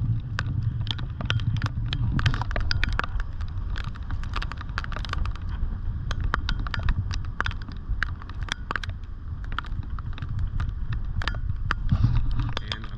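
Wind rumbling on a rain-drenched GoPro's waterproof housing, with many irregular sharp clicks and taps against it.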